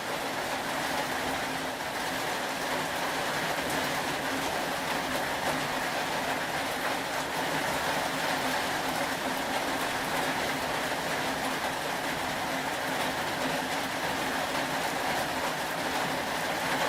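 Steady rain, a continuous even hiss.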